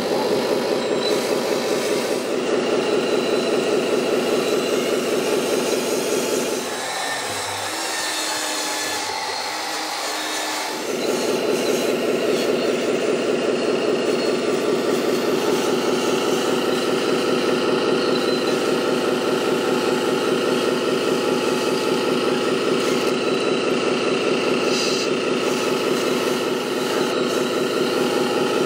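An engine running steadily with a fast, even pulse, easing off for about four seconds in the middle and then picking back up.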